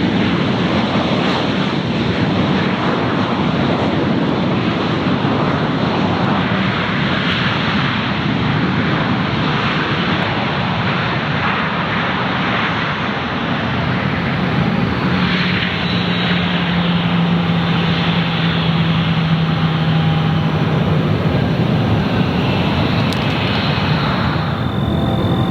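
Airliner jet engines running close by: a loud, steady rush, with a low steady hum joining in for several seconds past the middle.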